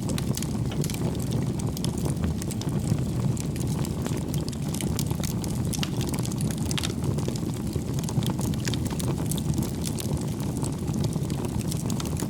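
Wood fire burning in a fireplace: a steady low rumble of flames with many small crackles and pops throughout.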